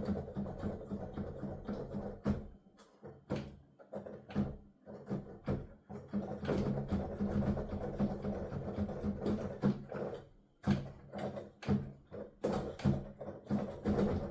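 Piano keys played with the sound going only to headphones: the key action knocks and thuds in quick, uneven runs like fast playing, with short lulls a few seconds in and again after about ten seconds.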